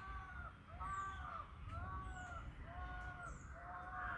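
A bird calling in a steady series, one arched call about every three-quarters of a second, with faint high chirps from another small bird between them.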